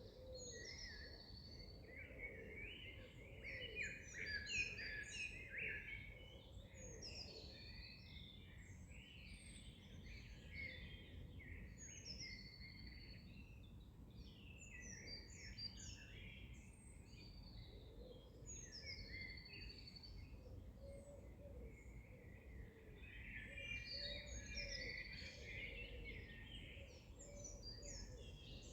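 Several birds singing and chirping at once, a dense mix of overlapping trills and short whistled notes, busiest a few seconds in and again near the end, over a faint steady low background hiss.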